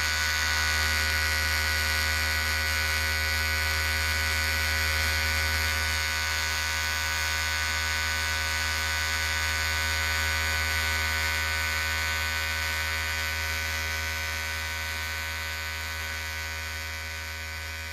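Electric hair clippers running with a steady buzz, gradually getting quieter over the last few seconds.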